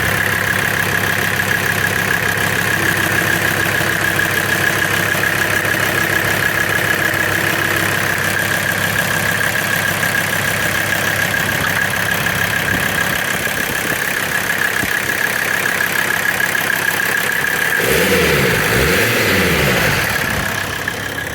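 Mercedes turbo-diesel engine idling steadily in a 4Runner, with a steady high whine over the idle. About three seconds before the end it is briefly revved, the pitch rising and falling, while the engine is still not warmed up.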